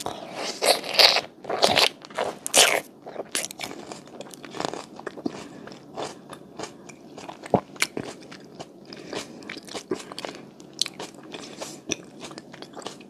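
Close-miked eating of a green grape mochi: a few loud crunching bites in the first three seconds, then chewing of the soft rice cake with many small wet mouth clicks and smacks.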